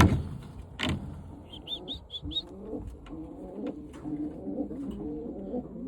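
Birmingham roller pigeons cooing in their loft, low wavering calls that set in about two and a half seconds in. Before that come two sharp knocks and a quick run of four short high squeaks.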